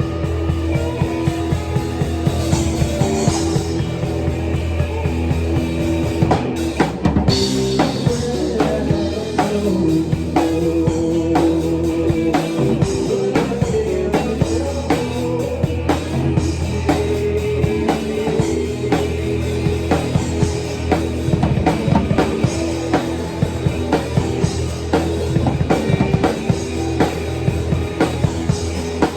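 Live rock band playing an instrumental passage: a drum kit keeps a steady, busy beat under sustained electric guitar chords.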